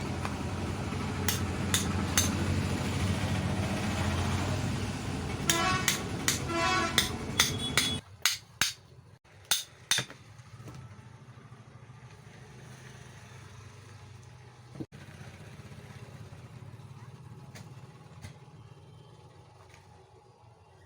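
Sharp metallic clinks and knocks, some of them briefly ringing, from breaker-hammer parts and tools being handled during a repair. Under them runs a low steady engine-like rumble that cuts off abruptly about eight seconds in, after which a few more clicks sound over a quiet hum.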